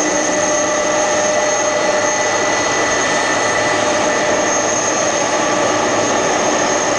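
Boeing 767-300ER jet engines running steadily: an even rushing noise with several steady high-pitched whining tones.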